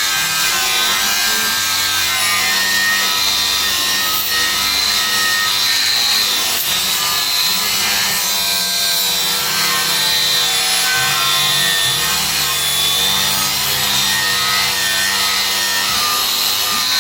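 Makita DGA404 18V brushless 100 mm cordless angle grinder running under load, its disc grinding against a workpiece with a continuous rasping, high whine.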